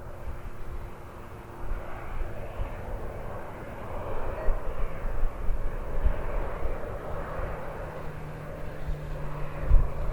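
Airbus Beluga XL's twin Rolls-Royce Trent 700 turbofans on landing, a steady rushing jet noise that swells about a second and a half in.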